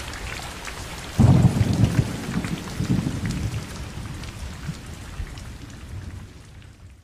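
Steady rain recording with a deep roll of thunder breaking in about a second in, then both fading out toward the end.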